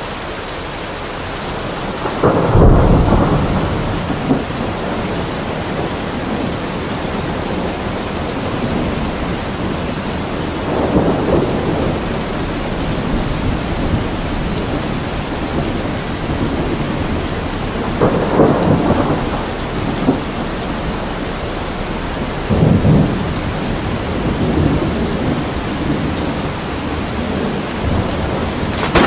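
Heavy rain falling steadily in a thunderstorm, with four rumbling thunderclaps. The loudest comes about two seconds in, and the others follow at intervals of several seconds.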